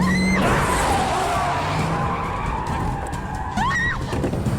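Cars driven hard, with engines running and tyres squealing. There are two short rising squeals, one right at the start and another about three and a half seconds in.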